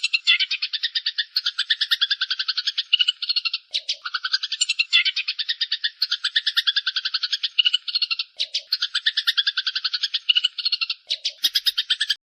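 A small songbird's rapid, buzzy trill of about ten notes a second, repeated in long phrases with a few brief pauses, as a recording used to train cage birds; it cuts off suddenly at the end.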